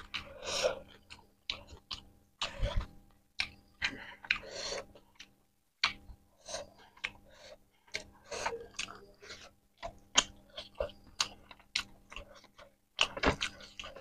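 Close-miked chewing of rice and egg curry, with wet mouth clicks and smacks, broken by a few louder breaths drawn through the mouth to cool it from the heat of king chilli.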